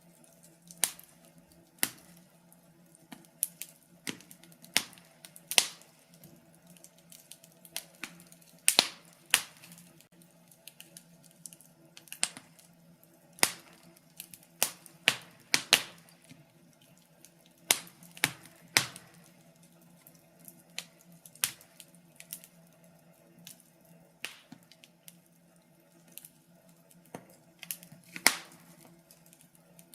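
Wood fire crackling in a fireplace: irregular sharp pops and snaps at uneven intervals, a few much louder than the rest, over a faint steady low hum.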